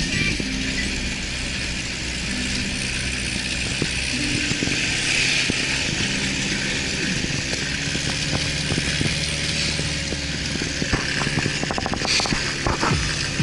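Off-road vehicle engine running steadily under way, its pitch shifting a few times. A quick run of sharp rattling clicks comes near the end.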